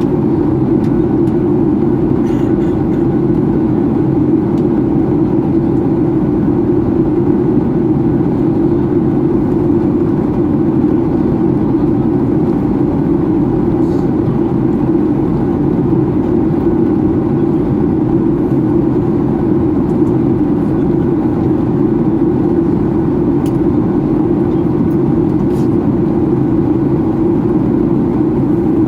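Steady cabin noise inside a Boeing 737-800 in flight on descent: the CFM56 jet engines and the airflow over the fuselage make an even, loud rush strongest in a low hum, with a few faint clicks.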